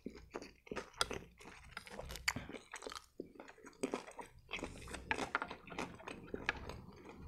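Close-miked chewing of a mouthful of turkey shawarma, with irregular wet smacking and soft crunching.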